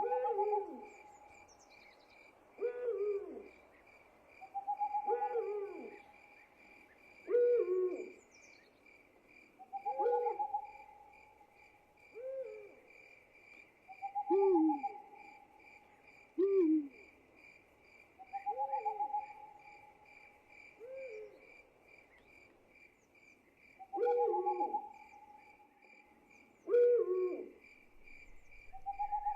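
Night-time animal calls repeating about every two to three seconds, each a held note followed by a few short falling notes, over a steady, fast-pulsing trill of insects.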